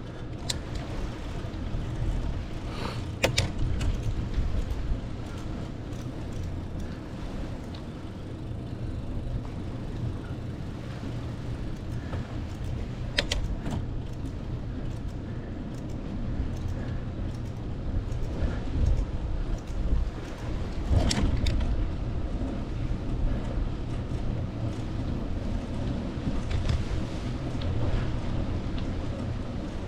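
Bicycle ride with a steady, uneven low rumble of wind on the microphone, broken by a few sharp clicks from the bike.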